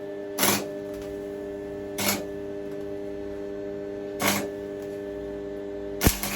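Stick (arc) welder striking brief arcs four times, each a short crackling burst under half a second, the last opening with a sharp snap, over the welder's steady hum. The current is still high enough to blast straight through the thin metal.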